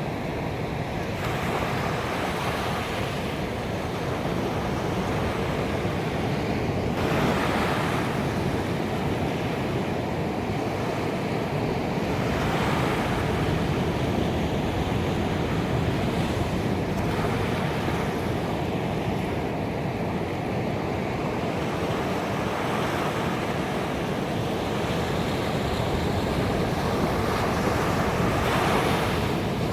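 Ocean waves washing onto a beach: a continuous rush of surf, with a wave breaking and swelling louder every few seconds.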